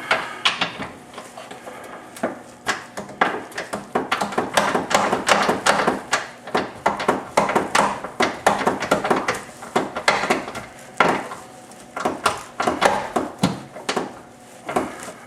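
A hand wrench working the nuts on the rear control arm and subframe bolts: runs of rapid metallic clicks and clinks while the nuts are tightened down, with brief pauses between strokes.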